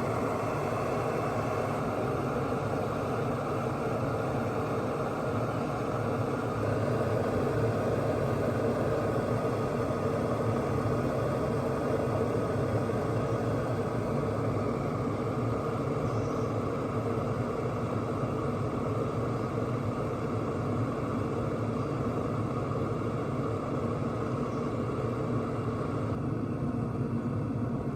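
OXO glass electric kettle heating about 40 ounces of water, a steady rushing sound of the water nearing the boil, which gets a little louder about seven seconds in.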